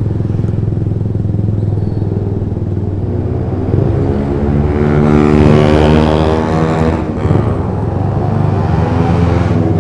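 Motorcycle engine running through an aftermarket three-mode exhaust set to its quiet mode, a steady low drone while riding. About four seconds in the pitch climbs as the engine revs up, then falls back near seven seconds.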